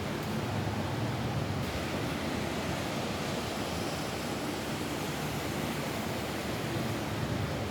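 Steady rain falling on a roof, an even hiss with no separate drops or other sounds standing out.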